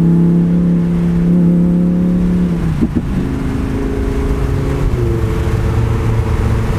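Lamborghini Huracán Spyder's V10 engine running as the car drives along with the top down, with wind rushing through the open cockpit. The engine note breaks and shifts about three seconds in, like a gear change, and settles again.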